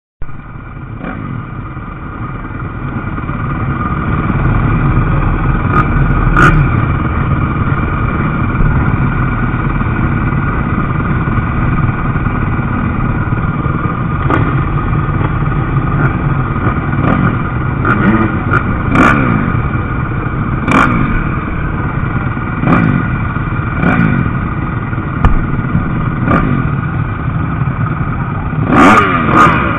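MX2 motocross bikes racing on a dirt track: a steady din of many engines, with single bikes revving up and down about ten times as they pass close by. The sound swells over the first few seconds.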